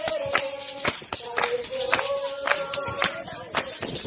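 Tambourine shaken and struck on a steady beat of about two strokes a second, its jingles ringing throughout, with singing voices holding long notes over it.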